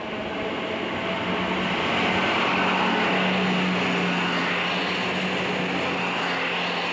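Class 170 Turbostar diesel multiple unit passing close by: a steady low engine drone under the rush of wheels on the rails. It swells to its loudest about two to three seconds in and eases off as the last car goes by.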